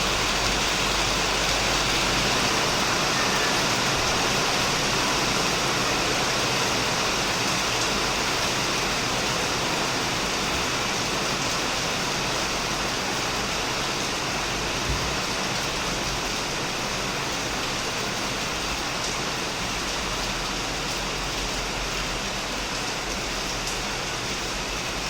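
Heavy rain falling steadily on a shed, a dense even hiss of drops with no pauses, easing very slightly toward the end.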